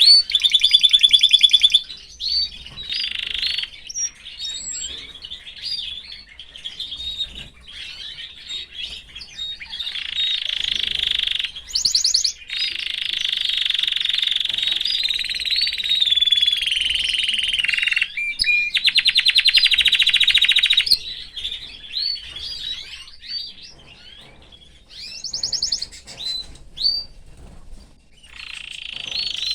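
Domestic canary singing: long, high warbling trills and rapid rattling rolls of repeated notes, broken up by short chirps.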